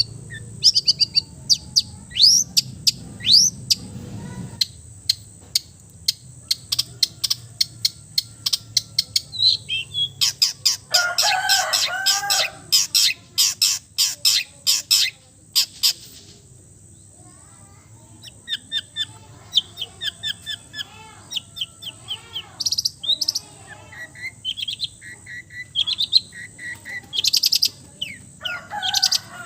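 Long-tailed shrike (cendet) singing a fast, varied mimicking song of sharp chirps, trills and whistles. There is a dense burst of chatter about halfway through, a brief pause, then quick repeated chirp series again.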